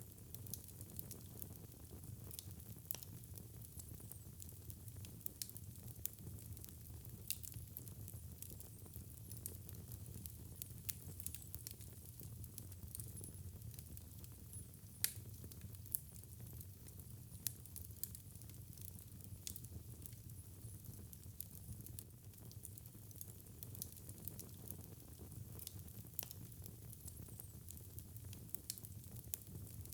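Fireplace fire crackling steadily, with many small pops and a few louder ones about halfway through. A low, steady rumble runs underneath.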